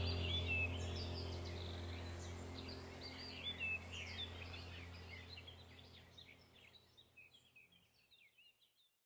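Small birds chirping over a low steady hum. The whole fades out gradually to silence near the end.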